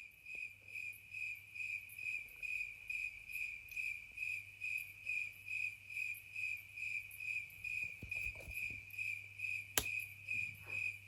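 Cricket chirping, an even string of high-pitched chirps at about three a second, with a single sharp click near the end.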